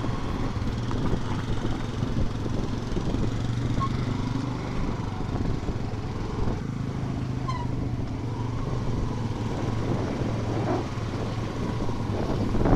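Motorcycle engine running steadily while riding, with a continuous rush of road noise. The bike is a Yamaha FZ-S V2 FI, a single-cylinder machine.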